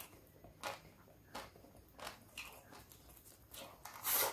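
Close-up chewing of fried rice mixed with crispy fried anchovy sambal: a run of short, crisp crunches, with a louder crunch near the end.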